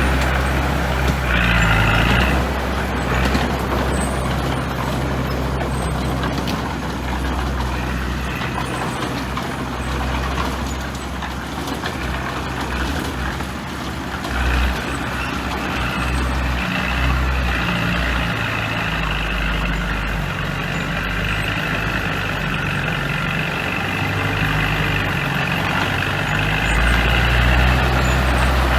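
Heavy diesel engine of earthmoving equipment, a bulldozer or dump truck, running steadily under load, with a brief hiss about two seconds in.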